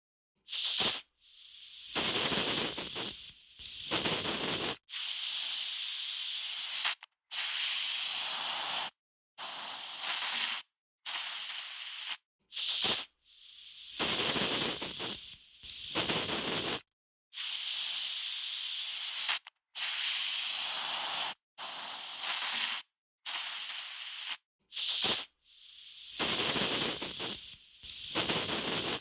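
Aerosol spray can spraying in a run of separate bursts, some short puffs and some held for about two seconds, each cut off sharply before the next.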